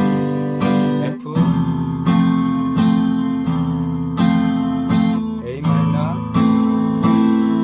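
Acoustic guitar strummed in a steady 3/4 waltz rhythm: a bass-string stroke followed by two strums on the higher strings ("kung-jjak-jjak"). It cycles through a beginner chord progression, with a brief gap and a chord change about a second in.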